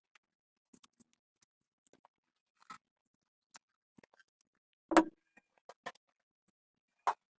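Scattered light clicks and taps of tools and small parts being handled, with a sharper knock about five seconds in and another near the end.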